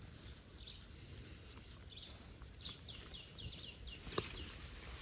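A bird calling: a few single high chirps that slide downward, then a quick run of about eight falling chirps near the middle. Over a faint steady hiss, with one sharp click near the end.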